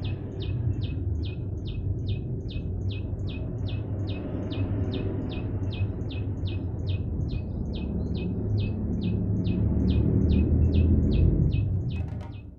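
A small bird calling a short, high, downward-sliding note over and over, about three times a second and very evenly spaced, over a low rumbling background noise that grows louder near the end.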